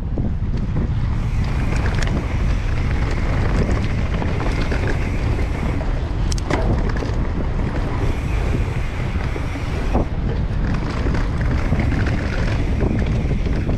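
Wind buffeting the microphone over the rolling rumble of mountain bike tyres on a dirt and rock trail during a fast descent, with a couple of sharp knocks from the bike hitting rocks or bumps.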